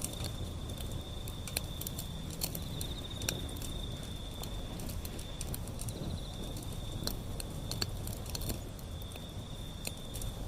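Wood fire burning with a low rumble and sharp, irregular crackles and pops, while an insect trills steadily at a high pitch in the background.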